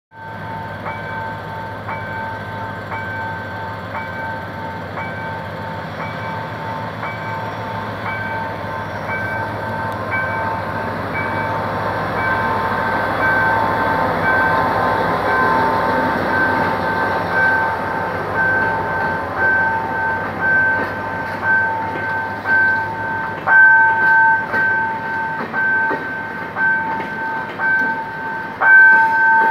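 A level-crossing warning signal sounds a two-tone beep about twice a second. Under it, a GM GT22CW diesel-electric locomotive drones past, pulling out with its passenger train. From about two-thirds of the way in, the coach wheels knock loudly and rhythmically over the rail joints.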